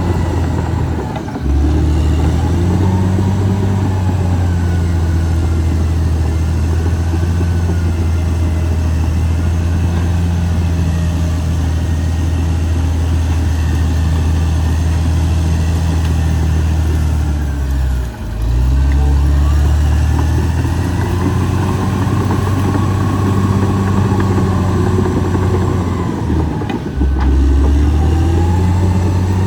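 Caterpillar D6R XL bulldozer's diesel engine running steadily and loud, with brief dips in engine note about a second and a half in, around eighteen seconds, and again near twenty-seven seconds, each time picking back up. A fainter wavering whine sits above the engine hum.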